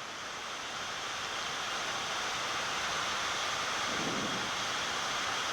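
Steady rushing air noise on a Boeing 787 flight deck during descent, swelling slightly louder over a few seconds.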